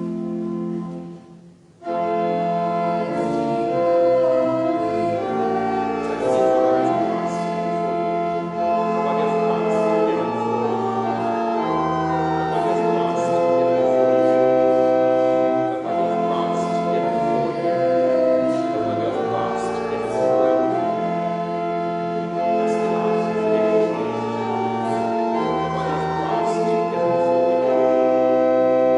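Organ playing slow music of held chords and a melody, with a short break just after the start.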